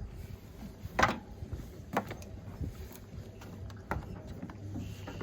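A few short, sharp knocks or taps, roughly a second apart, over a low background rumble.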